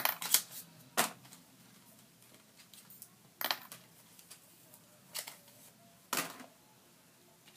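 Hair rollers clacking as they are pulled out of the hair and set down: about half a dozen short, sharp knocks at uneven intervals.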